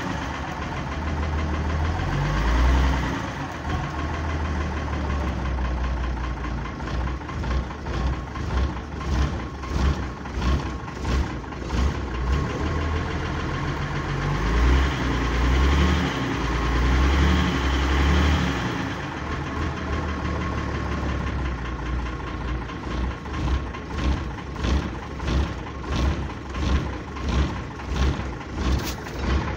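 GAZ-4301 truck's GAZ-542 diesel engine running, briefly raised in speed at the start and again about halfway, and otherwise idling with a regular pulse about one and a half times a second. It runs harshly, with a knock whose cause the owner cannot place.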